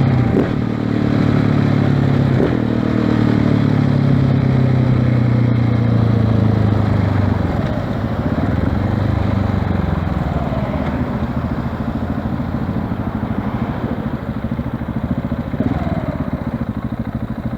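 KTM 690 Enduro R's single-cylinder engine, breathing through an FMF slip-on exhaust, running under way with a strong steady note for the first seven seconds or so, then easing off and quieter for the rest.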